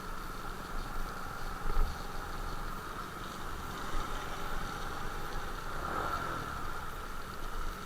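Motorcycle engine running steadily, with one brief thump about two seconds in.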